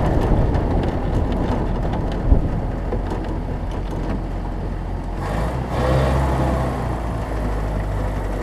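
1968 Land Rover Series IIA engine running as the vehicle drives, a steady low engine note with a single sharp knock about two seconds in. The engine grows louder for a couple of seconds past the middle.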